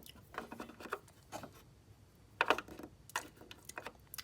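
A few faint, scattered clicks and taps of small objects being handled, the loudest about two and a half seconds in.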